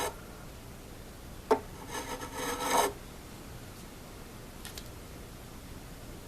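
Fret crowning file drawn across a metal mandolin fret in one rasping stroke of about a second, rounding over a fret that had a flat spot on top. A sharp click comes just before the stroke.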